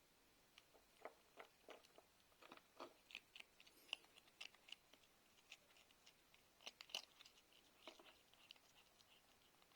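A cat chewing and crunching food, with faint, irregular crunches.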